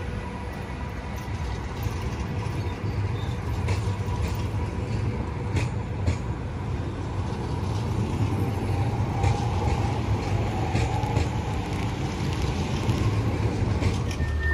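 A train standing at a station platform: a steady low engine rumble with scattered clicks and knocks.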